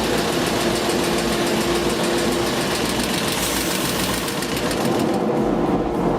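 Compact frame saw (GSN 240) running its reciprocating blades through hardwood: a steady mechanical din with a fast, even chatter and a constant hum.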